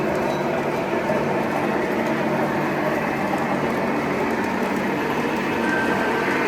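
Several O-gauge toy trains running together on a layout's three-rail track: a steady, even rumble of wheels and motors.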